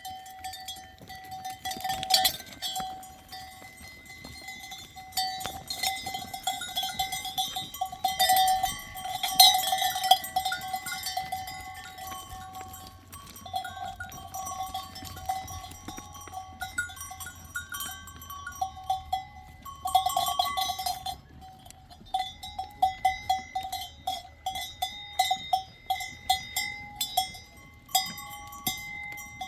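Bells on grazing livestock clanking and jangling over and over, irregular and in quick runs, louder at times.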